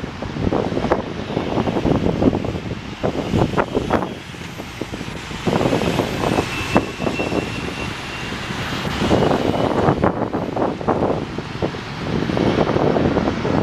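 Jet airliner engine noise heard outdoors, with wind buffeting the microphone in gusts. A faint high engine whine holds steady through the middle.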